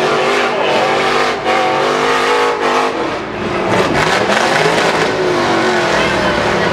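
Several demolition derby trucks' engines running hard and revving, their pitch rising and falling as the trucks accelerate and back off.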